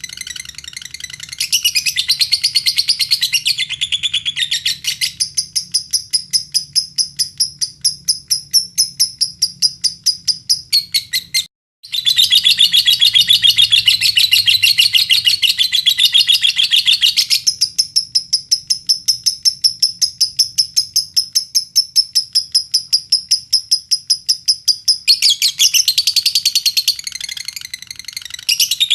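Lovebird singing a long, fast chattering trill, a very rapid run of notes that shifts between a rough, busy chatter and a steadier high-pitched stretch. The song breaks off for a split second near the middle, then carries on. It is the kind of song played to lovebirds as a lure to set them singing.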